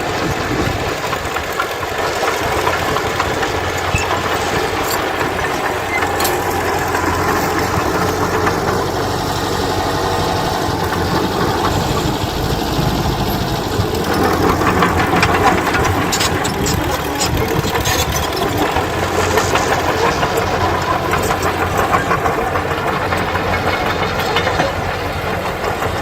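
Diesel engine of heavy earthmoving machinery running steadily, with clusters of short sharp clicks in the second half.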